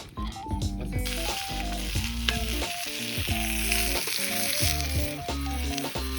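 Food sizzling in a hot pan, starting about a second in, over background music.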